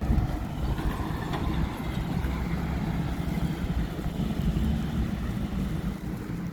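A motor vehicle's engine running close by: a steady low rumble that starts abruptly at the very beginning.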